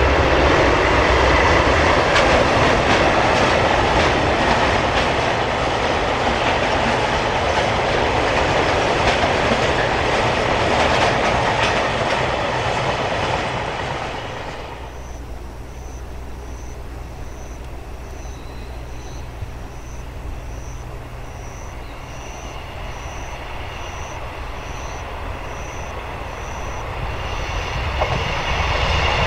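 A freight train of Taki 1000 tank wagons running past, its wheels clattering over the rail joints. The rolling noise cuts off about halfway through, leaving a quieter spell with a faint high chirp repeating about once a second. Near the end a diesel railcar's engine grows louder as it approaches.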